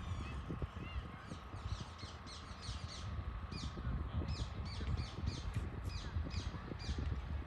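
Birds calling: quick series of sharp, high notes that each drop in pitch, over a low rumble of wind on the microphone.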